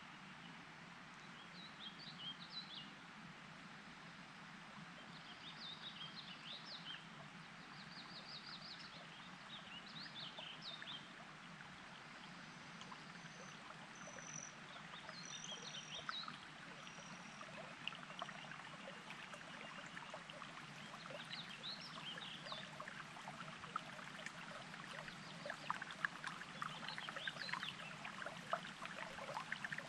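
Small songbirds singing short, repeated chirpy phrases every few seconds, with a few thin high whistles midway, over the faint burble of a mountain stream that grows louder in the second half.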